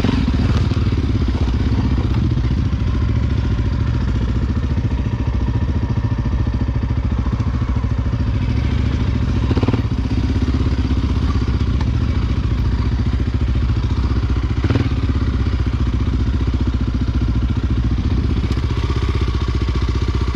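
Honda XR Tornado's single-cylinder four-stroke engine running steadily under way on an off-road enduro trail. Two brief knocks stand out, about ten and fifteen seconds in.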